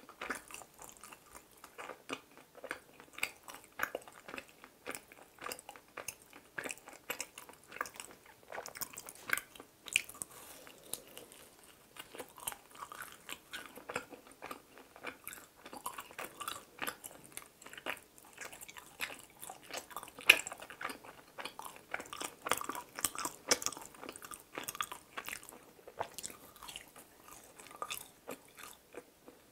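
Close-miked chewing and biting of mini glutinous rice donuts (chapssal donuts): a steady run of small crunchy crackles and wet mouth clicks, with one sharper click about two-thirds of the way through.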